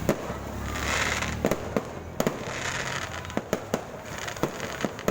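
Fireworks going off: a string of sharp bangs at irregular intervals, with bursts of crackling hiss about a second in and again near the middle.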